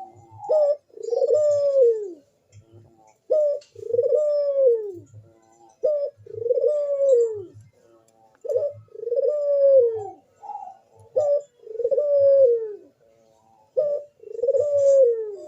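Male puter, a domestic Barbary (ringneck) dove in breeding condition, cooing steadily. Each call is a short note followed by a long rising-then-falling coo, repeated about every two and a half seconds, six times in a row.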